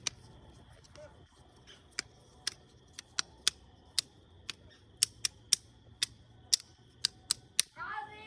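Wood fire crackling: sharp, irregular pops and snaps, about fifteen over eight seconds, over a faint steady high hum.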